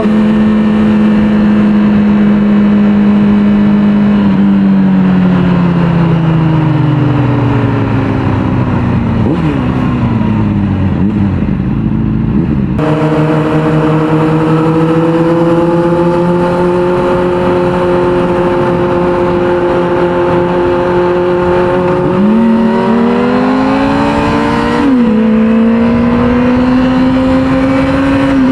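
A 600cc inline-four sport-bike engine under way. It holds steady revs, then the revs fall away over several seconds as the bike slows. About 13 seconds in the pitch jumps suddenly, and after that it cruises with revs rising gently, with short pitch steps of gear changes near the end.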